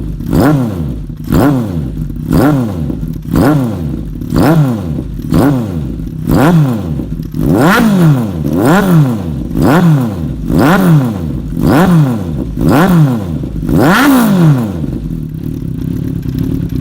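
Honda CB750F inline-four motorcycle engine, fitted with a one-off WAGIRI slip-ring muffler, blipped repeatedly, about once a second, each rev rising and falling back. Near the end the blipping stops and the engine settles to idle.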